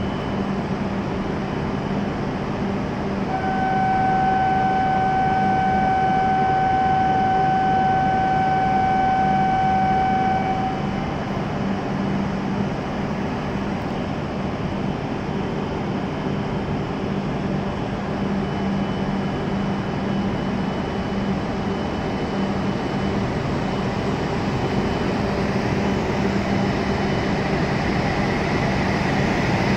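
E7 series Shinkansen train standing at the platform with a steady hum. From about three seconds in, a steady buzzer tone sounds for about seven seconds. Near the end the train starts to pull away and its running noise rises.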